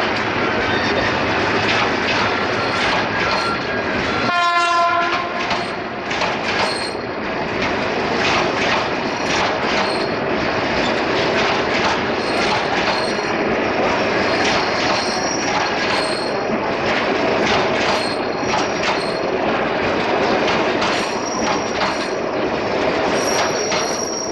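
Passenger train coaches rolling steadily past, wheels clattering over rail joints. About four seconds in, a train horn sounds once for about a second. Thin, high wheel squeals come and go in the second half.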